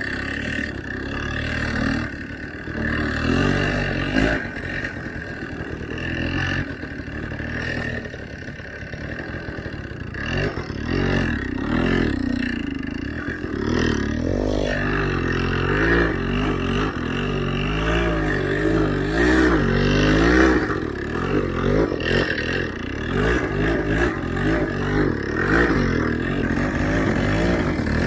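Motorcycle engine revving up and down under load in deep snow, its pitch rising and falling rapidly and repeatedly, more so in the second half.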